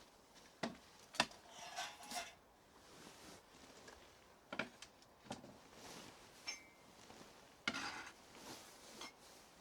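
Dishes and cutlery being handled: a dozen or so irregular light clinks and knocks, a couple of them ringing briefly.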